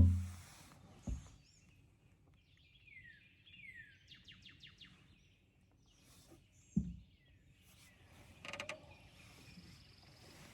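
Quiet outdoor background with a songbird giving short downward-sliding chirps and a quick run of rapid notes a few seconds in. There are two dull low knocks, one near the start and a louder one past the middle.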